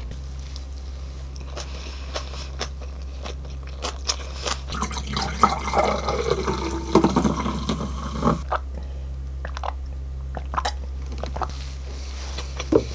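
Close-up chewing and crunching of food, with a soft drink poured from a bottle into a glass for a few seconds around the middle, then more chewing.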